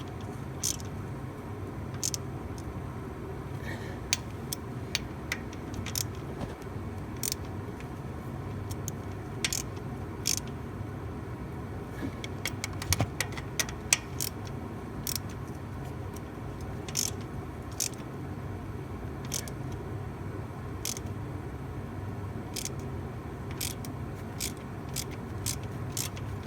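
Wrench worked back and forth on a nut welded onto a broken GM 4.8 exhaust manifold stud, giving sharp metallic clicks every second or so over a steady low hum. The stud is very tight and only slowly starting to turn out.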